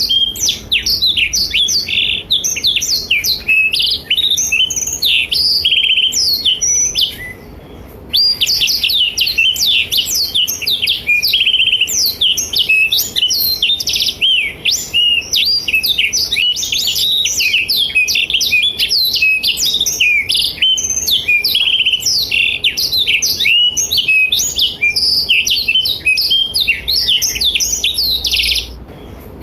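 Blackthroat (black-throated canary) singing a long, fast, unbroken song of rapid high twittering notes and trills. It breaks off briefly about seven seconds in and again just before the end.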